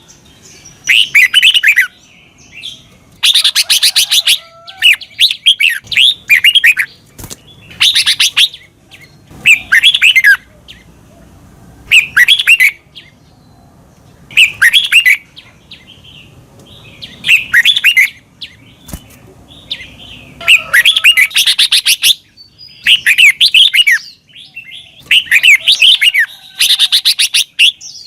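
Red-whiskered bulbul singing: about a dozen short, loud warbled phrases of quick slurred notes, each lasting about a second, with brief pauses between them.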